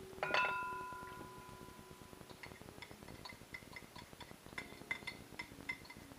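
A single ringing clink of a kitchen utensil against a glass or metal bowl. After it comes a run of light, quick taps, several a second, as the cream is added to the mayonnaise base.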